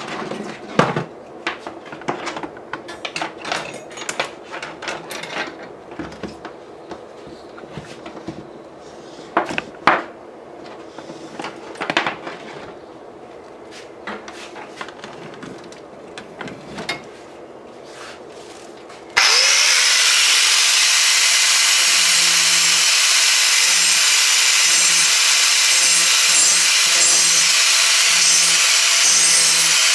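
Scattered clicks and knocks of the steel anvil and tool being handled. About two-thirds of the way in, a grinder switches on abruptly, spins up and runs loud and steady as it grinds the sharp edges off the steel anvil.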